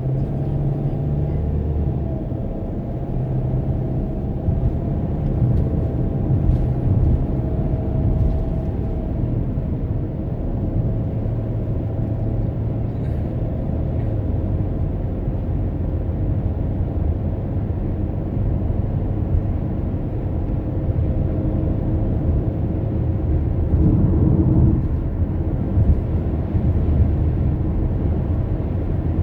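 Car driving along: a steady low rumble of engine and tyres on the road, heard from inside the cabin, with a faint hum that holds steady.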